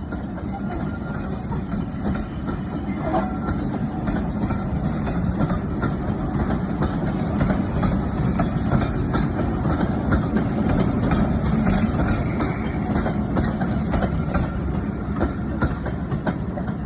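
Class 37 diesel locomotive 37 508 and its train departing: the English Electric V12 diesel engine runs under power with wheels clicking over rail joints. The sound grows louder toward the middle and eases slightly near the end.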